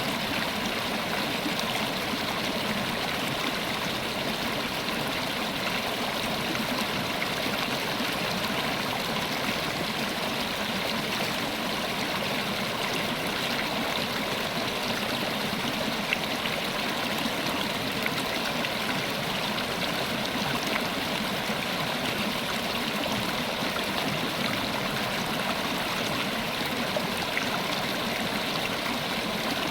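River water flowing over rocks, a steady rushing and splashing with small gurgles.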